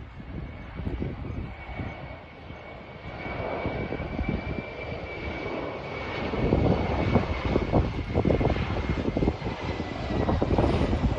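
Jet airliner passing near the runway: a steady high engine whine over a rumble that grows louder from about six seconds in.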